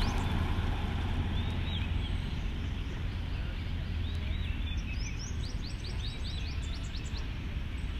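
Birds chirping outdoors: scattered short hooked calls and a quick run of rising chirps about five to six seconds in, over a steady low rumble that eases off near the end.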